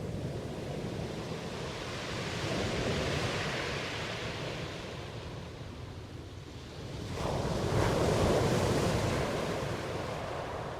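Ocean waves breaking and washing ashore, swelling twice: a gentle wave near the start and a louder one breaking about seven seconds in.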